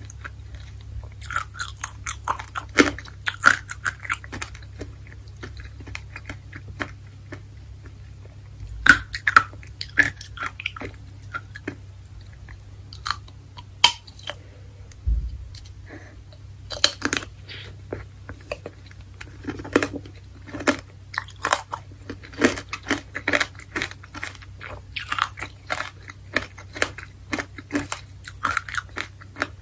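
Close-miked biting and chewing of candied fruit: a dense run of irregular crunches and crackles as the sugar coating breaks, with wetter chewing between the bites.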